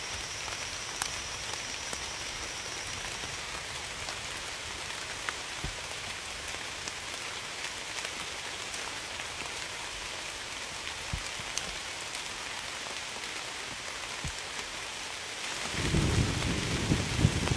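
Steady rain falling, an even hiss with occasional single drops ticking out; a thin high steady tone sounds faintly for the first few seconds. Near the end a loud low rumble of thunder rolls in.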